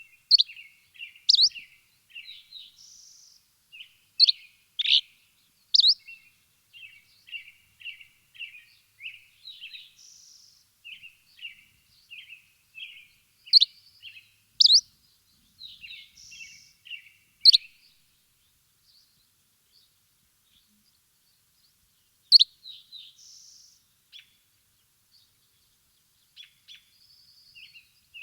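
Birds chirping: runs of short, quick chirps broken by loud, sharp upward-sweeping calls, with a couple of long pauses in the second half.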